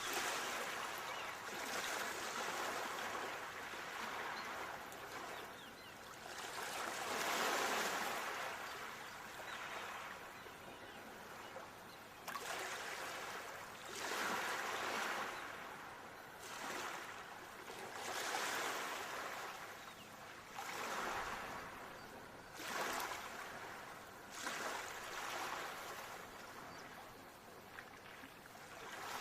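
Ocean waves washing onto a shore, a steady hiss of surf that swells and fades every few seconds.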